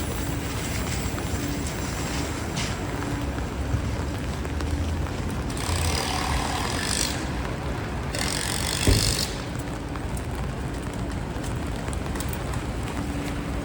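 City traffic on rain-wet streets: a steady wash of vehicle and wet-road noise, with two loud hissing swells about six and eight seconds in and a short thump near nine seconds.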